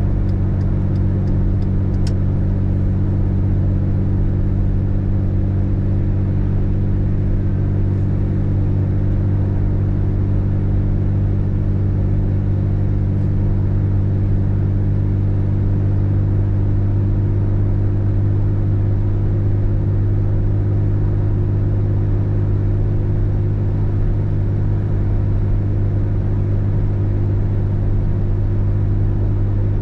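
Car driving, heard from inside the cabin: a steady low drone of engine and road noise that holds even throughout. At the start there are faint, evenly spaced light ticks, ending with a click about two seconds in.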